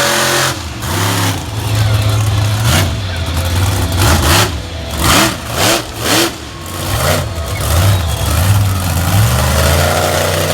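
Monster truck engine running and revving in a string of quick blips, the pitch rising and falling several times in quick succession through the middle of the stretch before settling back to a steady run.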